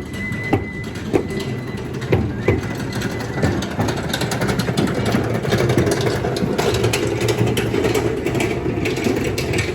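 Loud street din from a crowd, with a few sharp bangs in the first few seconds, then a denser steady roar of noise with a low hum.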